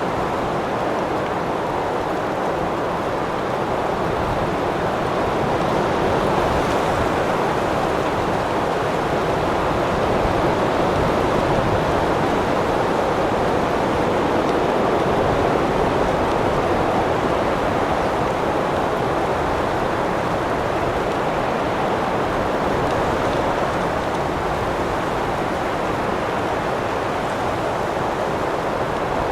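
Wind blowing steadily, an even rushing noise that swells a little partway through.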